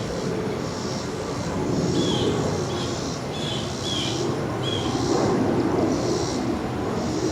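Airliner flying overhead, a steady low rumble that swells in the second half. A rhythmic high chirping repeats about every two-thirds of a second, with a few short chirps in the middle.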